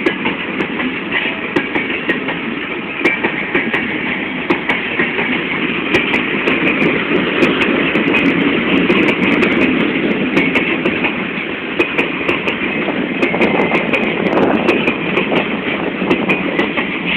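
Freight train of mineral hopper cars rolling past, steel wheels clattering over rail joints in many sharp, irregular clicks over a steady rumble.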